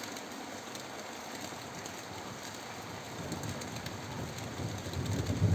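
Steady rain of a summer thunderstorm pouring down, with a low rumble of thunder building over the last couple of seconds.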